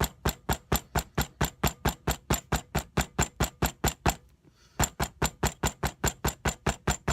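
A hammer pounding a morning glory flower folded in paper towel, about four quick, even blows a second, crushing the petals to press their colour out into the paper. The blows break off briefly about four seconds in, then start again.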